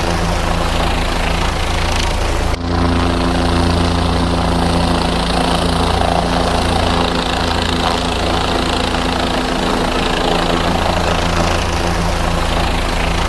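Helicopter engine and rotor running steadily, with an abrupt break about two and a half seconds in where the sound cuts and resumes.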